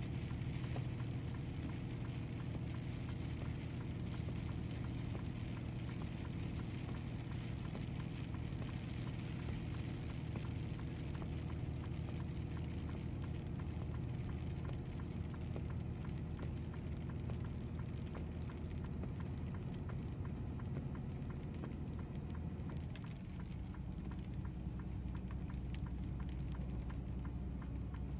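Truck driving through a rainstorm: a steady low engine and road drone under a patter of rain. It goes briefly quieter about three-quarters of the way through.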